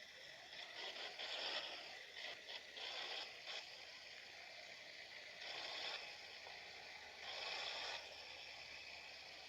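Rushing road and wind noise of a moving truck, an uneven hiss that swells and fades several times.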